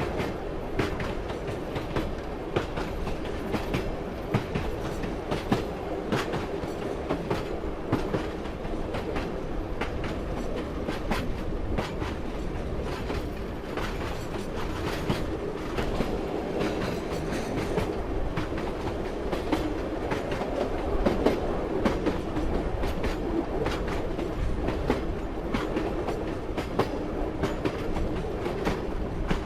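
A train running at speed: a steady rumble with its wheels clacking over the rail joints in frequent sharp clicks.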